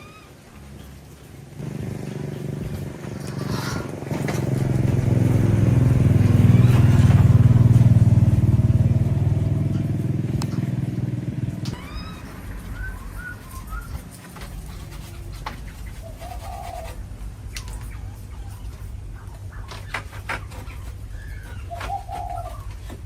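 A motor vehicle engine swells up over a few seconds and fades away by about twelve seconds in, like a vehicle passing by. Short bird chirps follow.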